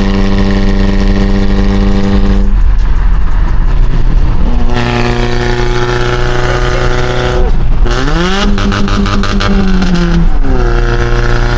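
Car engine and exhaust droning steadily while driving. About two and a half seconds in, the drone gives way to a rush of noise for a couple of seconds, then comes back at a lower pitch. About eight seconds in, it sweeps up in pitch as the car accelerates, holds for two seconds, and falls back.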